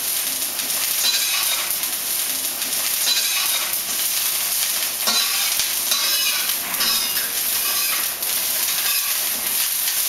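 Onions frying in oil in a stainless steel wok, sizzling steadily, with a spatula stirring and scraping in the pan every couple of seconds.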